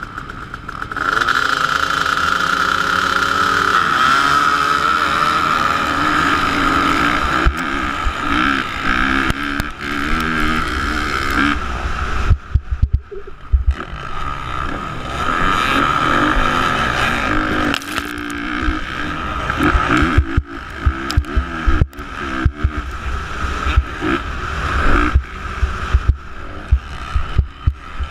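Motocross bike engine revving up and down as it rides, with a rush of wind noise. From about seven seconds in there are many brief low thumps and sudden jumps in level.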